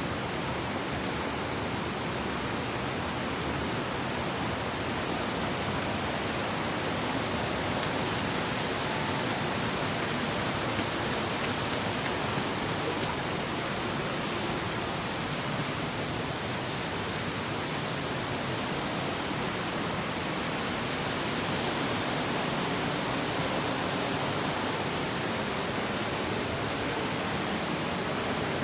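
Steady rushing of flowing water over rocks, an even hiss with no breaks.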